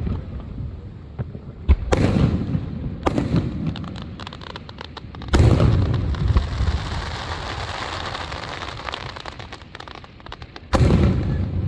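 Firework shells bursting: four booms, at about two, three, five and eleven seconds in, each with a rolling echo. After the third boom comes a long crackling shower lasting several seconds.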